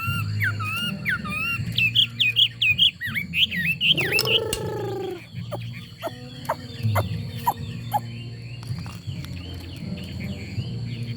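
Chinese hwamei singing a fast run of loud, looping whistled phrases that breaks off about four seconds in. A brief lower call with a falling pitch cuts in there, and after it come only softer twitters and scattered clicks over a steady low hum.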